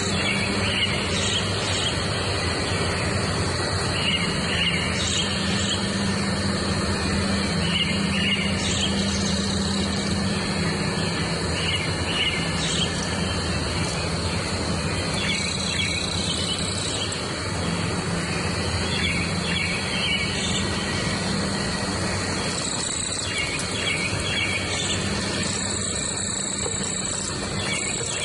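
Outdoor ambience of birds singing short repeated phrases over a steady high insect drone, such as crickets, with a low steady hum underneath.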